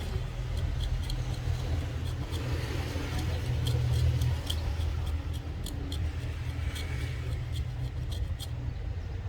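A steady low rumble, swelling a little now and then, with scattered light clicks and ticks over it.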